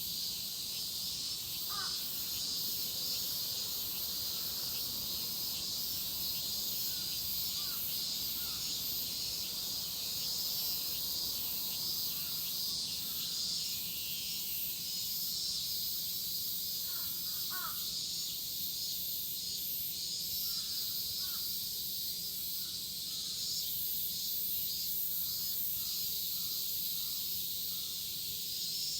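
Cicadas in a dense summer chorus, a steady high-pitched drone. Crows caw several times over it in short runs.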